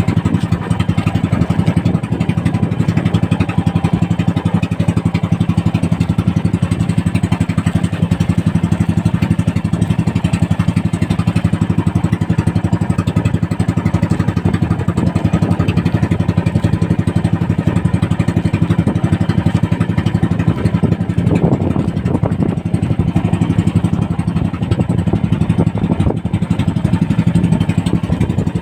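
Small fishing boat's engine running steadily at an even speed, with no change in pitch.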